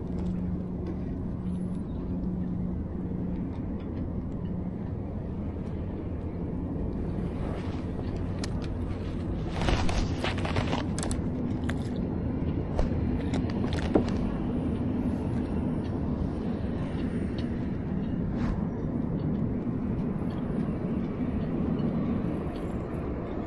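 A steady low engine drone, with a few sharp clicks and knocks about ten to fourteen seconds in.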